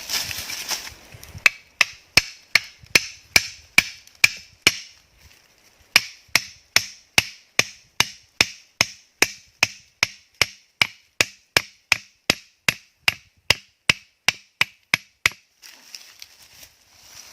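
A blade chopping wood in quick, even strokes, about two and a half a second, each with a short ringing tone. The chopping pauses briefly about five seconds in, then carries on until near the end.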